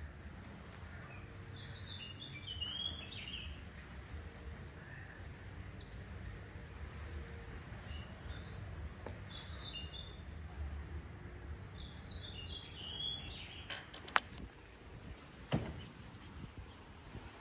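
A songbird singing a short phrase of quick chirping notes three times, over a low steady rumble that fades out about two-thirds of the way through. Two sharp clicks come near the end.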